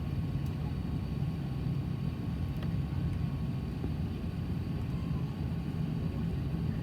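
Steady low rumble of an Airbus A380's Rolls-Royce Trent 900 engines running, heard inside the cabin behind the wing.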